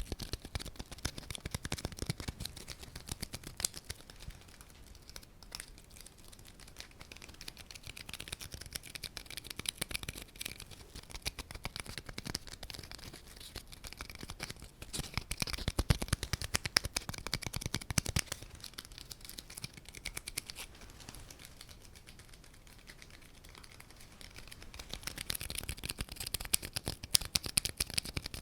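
Close-miked ASMR tapping and scratching: rapid light taps and scratches that come in denser, louder stretches, with a softer patch in the middle.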